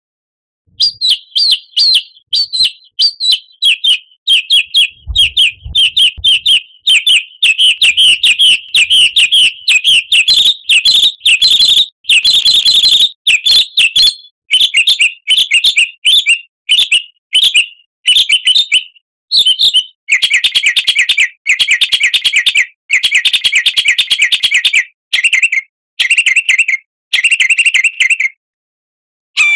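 Songbird song, a fast run of chirps and trills in short bursts separated by brief gaps, from a bird-song track of the kind played to prompt caged songbirds to sing.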